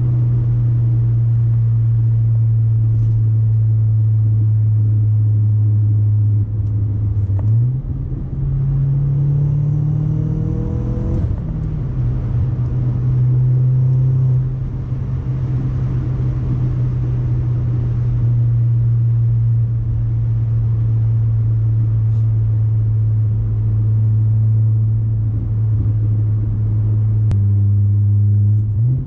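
Audi A4 1.8T turbocharged four-cylinder engine running through an ECS catback exhaust with a 3-inch test pipe and no resonator, holding a steady low drone. About a third of the way in the revs climb for a few seconds, then drop back to the steady drone.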